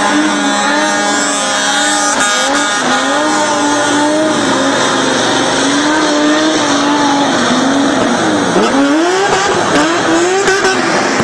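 Car engine held at high revs while its tyres squeal in a drift. About three-quarters of the way through, the engine is revved up and down sharply several times in quick succession.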